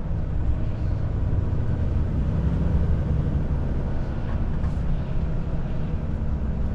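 Volvo FH truck's diesel engine running steadily under way, heard from inside the cab as a continuous low drone with road noise.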